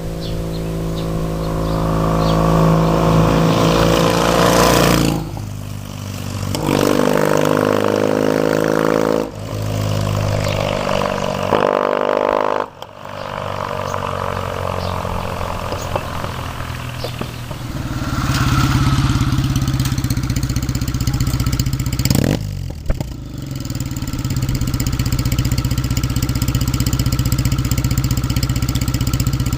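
Kawasaki W800's air-cooled parallel-twin engine through an all-stainless HOTRUN full exhaust system, accelerating in rising sweeps and shifting up three times. It then settles to a steady, lower, even note.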